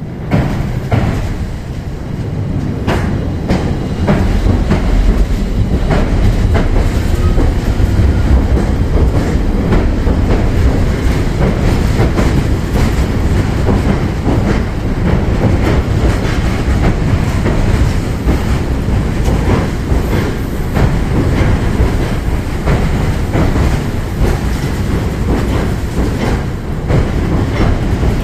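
A Tobu Skytree Line train passing close by on the railway bridge over the Sumida River. Its wheels clatter over the rail joints with a heavy rumble, rising sharply about half a second in and staying loud throughout.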